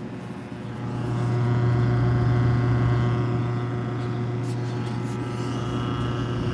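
Steady machine hum, swelling about a second in and then holding level.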